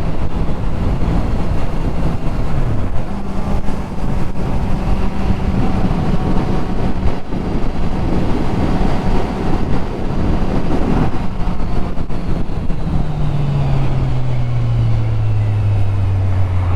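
Kawasaki Z1000SX's inline-four engine running at a steady cruise under a heavy rush of wind noise. Over the last few seconds the engine note falls steadily as the bike slows.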